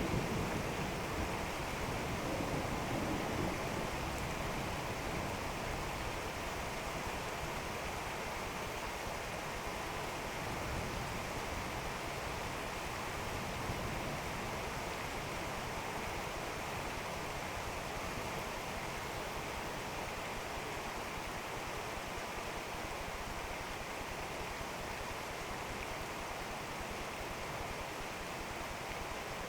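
Heavy rain falling steadily in a thunderstorm, an even hiss. The low rumble of a thunderclap fades away over the first few seconds.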